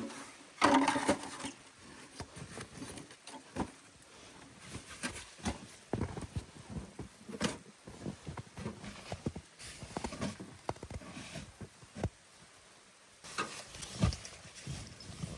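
Irregular knocks, taps and rustles of someone handling things by hand, with a louder scraping rustle about a second in.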